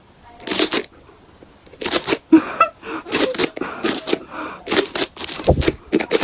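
Irregular series of short rustling, scraping noises, about a dozen quick bursts with brief gaps between them.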